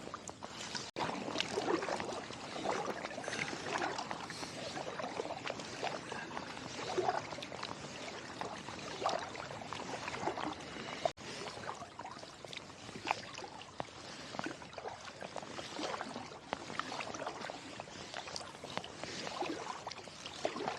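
Kayak paddle strokes in river water: the blades dipping and pulling, with continual splashing and dripping in an irregular patter.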